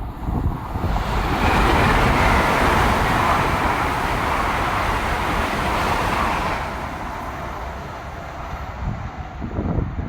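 A train passing through at speed: a rushing noise that builds about a second in, stays loud for about five seconds, then fades away. Wind buffets the microphone underneath.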